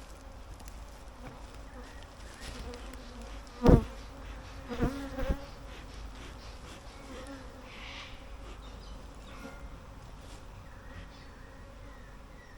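Honey bees buzzing steadily around an open hive, agitated and defensive. There is a loud knock about four seconds in, and two lighter knocks about a second later.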